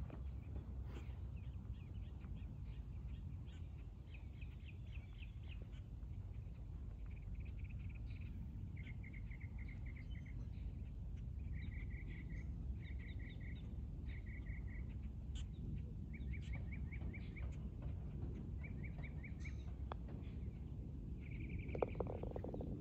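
Birds calling over and over in short, rapid trills, over a low steady background rumble.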